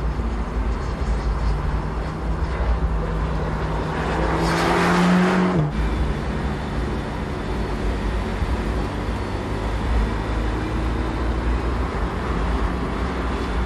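Mercedes-AMG GT Black Series's 720-hp twin-turbo V8 running at speed on track. The engine note climbs and grows louder to a peak about five seconds in, then drops suddenly, and carries on at a steady pitch.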